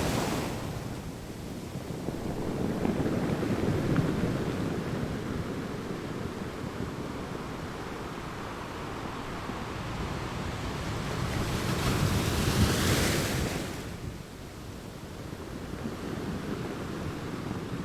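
Sea waves breaking and washing on a shore in slow surges that swell and fall away. The biggest wash comes about twelve seconds in.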